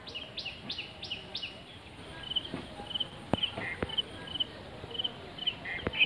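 A bird calling repeatedly outdoors: first a quick series of high notes that each sweep downward, then a run of short high chirps about three a second. A few sharp clicks stand out in the second half.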